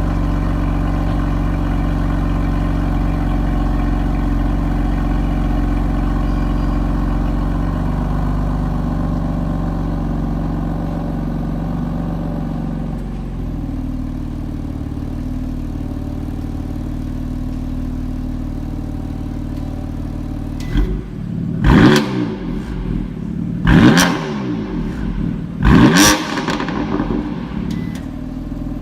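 BMW M3 F80's twin-turbo inline-six idling, its idle dropping to a lower, quieter note about halfway through. Then come three short throttle blips, each revving up sharply and falling straight back to idle.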